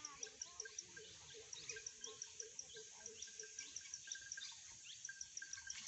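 Faint forest wildlife ambience. A fast, steady chirping of high pulses, about five a second, runs over a lower call repeated a few times a second that stops about four seconds in, with scattered short falling calls.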